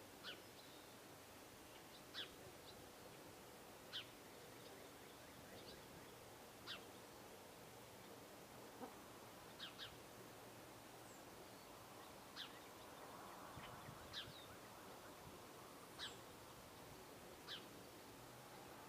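Birds calling faintly: short sharp chip notes every second or two, with a few thin, high, downslurred notes, over a steady background hiss.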